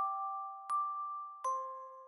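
Gentle background music: a slow tune of struck, bell-like notes, three in these seconds, each ringing out and fading before the next.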